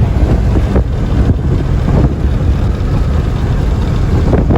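Steady low rumble of a Freightliner box truck's engine and road noise, heard from inside the cab while driving.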